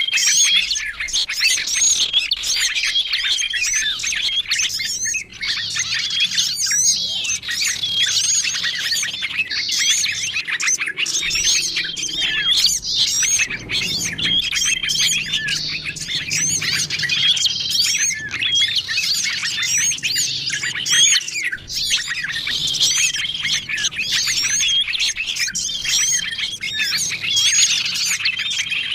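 A dense, continuous chorus of small songbirds chirping and twittering over one another. It is a layered bird-lure (pikat) recording for attracting small wild birds. A short, level whistle recurs every two to three seconds above the busy chatter.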